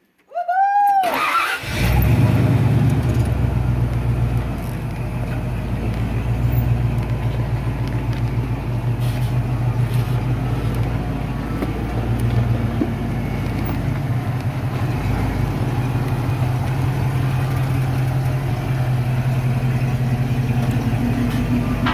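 Off-road vehicle's engine running steadily at low revs, after a brief rising-and-falling whine about half a second in.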